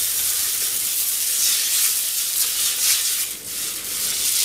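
Boiled noodles sizzling in oil in a frying pan as they are stirred and tossed for yakisoba, a steady high hiss that dips briefly about three seconds in.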